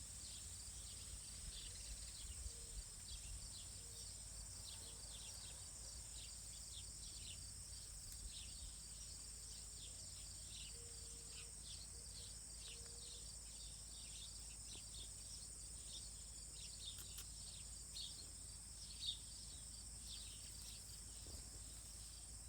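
Faint outdoor ambience of small wild birds calling in quick, short, downward-sweeping chirps over a steady high insect drone, with one brief tick about 19 seconds in.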